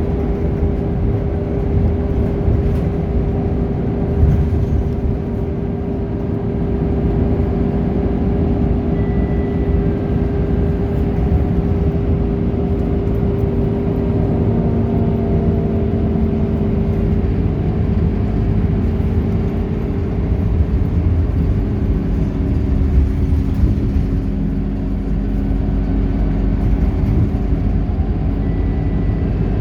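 Scania K230UB bus's nine-litre five-cylinder diesel engine running continuously with a low rumble and a steady whine, its note shifting slightly up and down as the bus drives.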